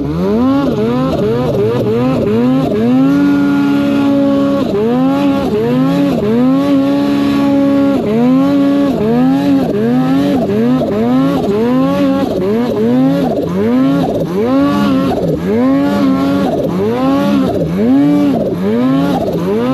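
Snowmobile's two-stroke engine being worked hard, its pitch rising and falling in quick repeated throttle surges, with a couple of longer stretches held at high revs.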